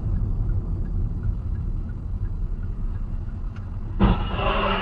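Car driving: a steady low rumble of engine and road noise. About four seconds in there is a sudden loud thump, after which the sound becomes busier and louder.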